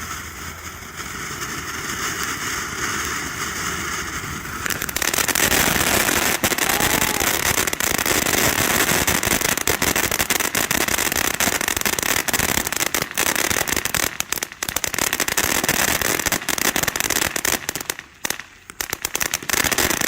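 Reggiane-RE 2005 ground fountain firework spraying with a steady hiss, then about five seconds in breaking into dense crackling that keeps going, with brief lulls near the end.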